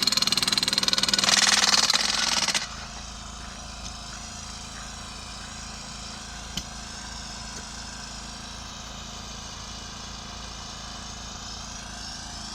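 An engine runs loudly with a rapid pulsing for about two and a half seconds, then drops suddenly to a steady, quieter running. A single sharp click comes about six and a half seconds in.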